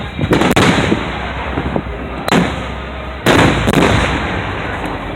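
Aerial fireworks bursting: several sharp booms with echoing tails, two quick bangs just after the start, one a little past two seconds in, and two more a little after three seconds.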